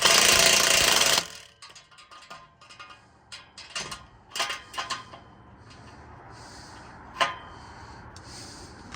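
A loud rushing noise for about the first second, then scattered metallic scrapes and clicks of an adjustable wrench tightening an exhaust clamp bolt, with one sharper click about seven seconds in.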